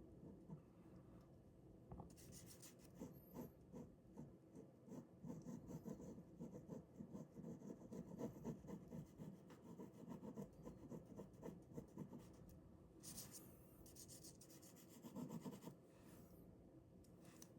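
Ballpoint pen drawing on paper: faint, quick scratchy strokes and rubbing, many small strokes a second with no pause.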